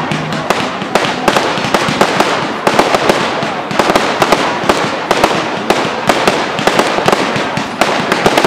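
Firework display with aerial shells and crackling effects going off overhead: a dense, unbroken crackle of pops, with sharper bangs among them.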